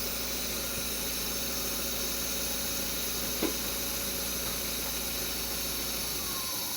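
Mazda 626's newly replaced engine idling steadily on its first run, running quietly, with a short tick about three and a half seconds in. One onlooker puts a faint extraneous noise down to the compression rings.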